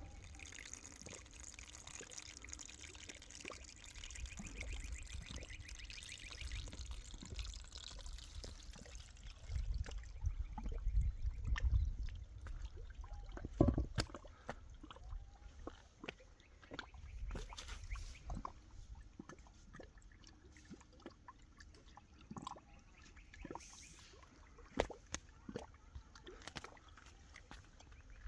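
Liquid pouring and trickling, with scattered clicks and knocks of handling and a low rumble that swells about ten seconds in.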